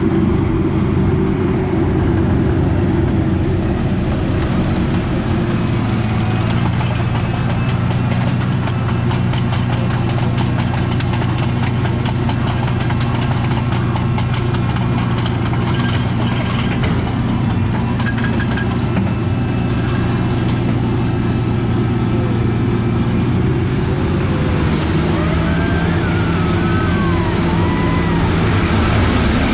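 Casey Jr. Circus Train ride train running along its track: a steady low rumble and hum. Faint squealing glides come in near the end.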